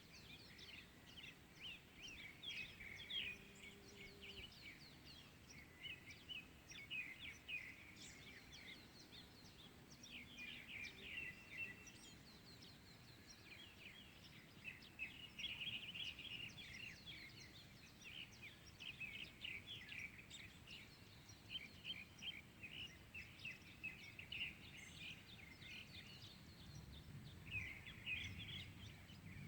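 Several small birds chirping and twittering in morning song, faint, with quick high chirps in dense overlapping clusters that come and go every few seconds.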